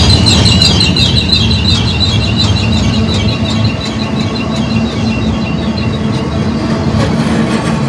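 Union Pacific freight train's cars rolling past close by, with a high, wavering squeal from the steel wheels on the rails that fades out over the first several seconds. Under it runs a steady low rumble of wheels on track.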